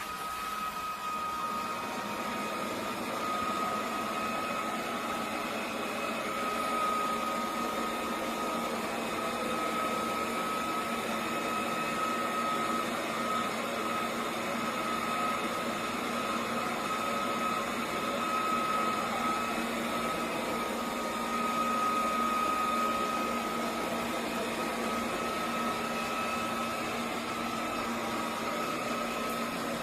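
eufy Omni C20 robot vacuum running: a steady whir with a high, even whine that starts suddenly and holds.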